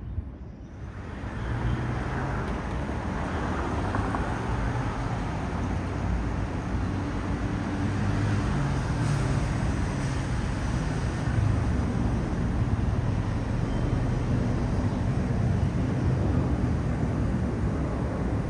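Aircraft engine noise heard from the ground: a steady rush with a low hum, starting about a second in and holding steady.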